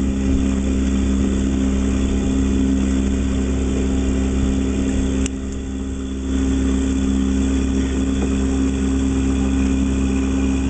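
A sailboat's engine running steadily with an even hum. It drops briefly quieter for about a second, after a click about five seconds in.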